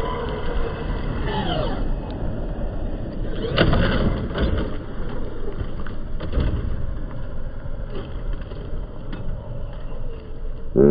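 Traxxas X-Maxx 8S RC monster truck's brushless electric motor whining as it revs up and down, over a steady noise, with a few short knocks.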